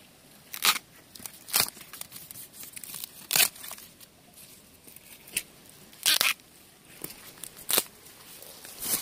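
Young bamboo shoots being pulled and snapped off by hand: about five crisp, sharp snaps a second or two apart, with faint rustling of leaves and stalks between them.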